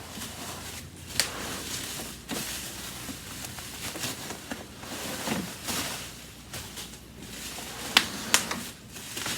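Handling noise from unpacking and moving a vintage Hoover vacuum: low rustling and scraping, with a few sharp clicks or knocks, one near the start and two close together near the end.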